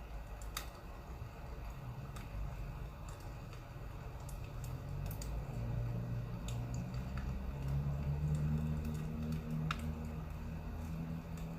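Sparse, irregular pops and crackles of burning firewood, over a low rumble that grows louder and takes on a low hum about halfway through.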